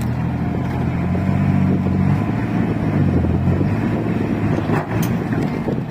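Excavator's diesel engine working under load while pulling a car out of the mud. The engine is strongest in the first half and eases off toward the end, with a couple of faint knocks near the end.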